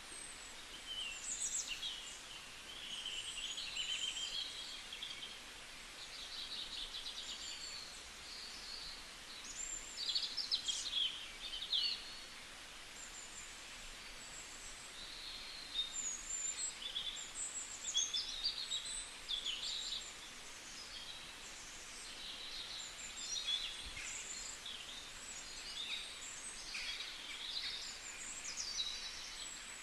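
Small birds chirping and calling over a faint steady hiss: many short high chirps and quick trills, some overlapping, coming every second or two.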